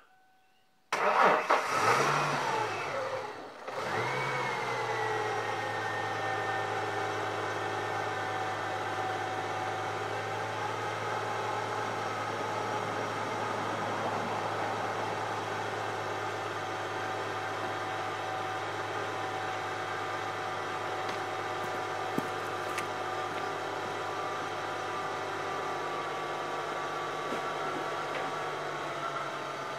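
Freshly swapped engine of a 1997 Ford Mustang starting about a second in. It runs loud and uneven for a couple of seconds, dips briefly, then settles into a steady idle.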